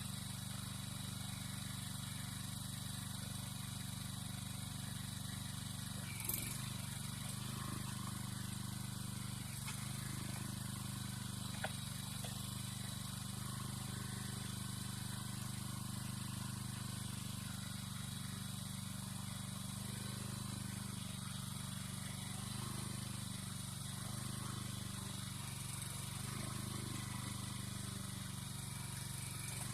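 A small engine running steadily at one even speed, with no revving. Two brief sharp knocks come through, about six seconds and about twelve seconds in.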